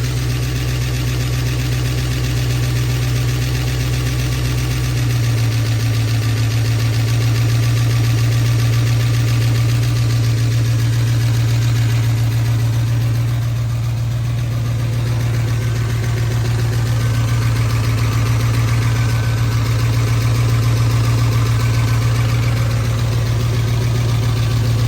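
Ford 351 Windsor V8 idling steadily; its note shifts slightly about five seconds in.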